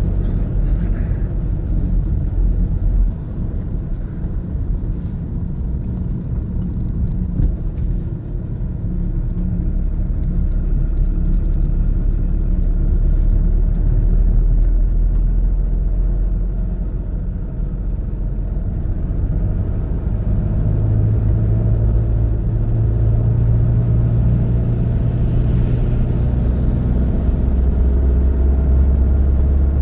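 A car driving, its engine and road noise making a steady low rumble, with the engine note changing pitch a couple of times in the second half.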